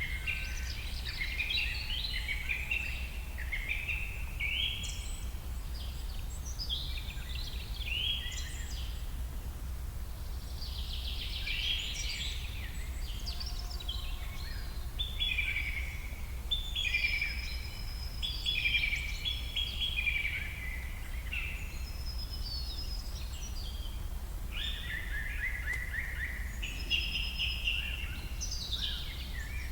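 Birds singing in a busy chorus, one short chirping or trilling phrase after another with hardly a pause, over a steady low background rumble.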